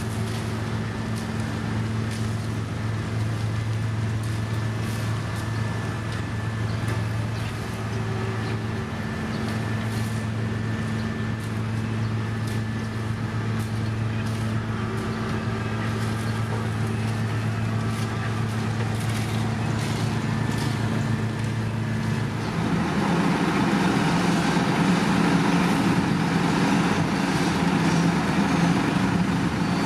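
Heavy road-construction machinery running, with a steady low diesel engine hum. About two-thirds of the way in, it changes to a louder, rougher engine sound.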